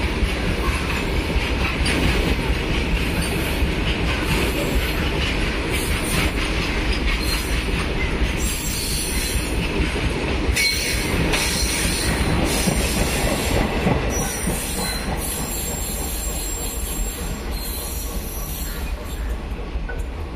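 Indian Railways freight train of loaded open coal wagons rolling past: a steady rumble and clatter of wheels over the rails, with high-pitched wheel screeching that comes and goes in the middle.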